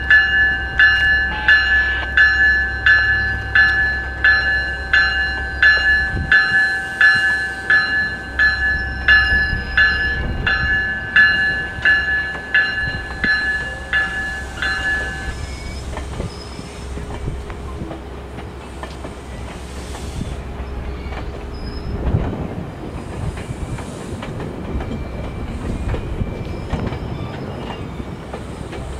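GO Transit bilevel commuter train running past on the rails, with a bell ringing steadily about twice a second that stops abruptly about halfway through; after that, the rumble and clatter of the coaches rolling by.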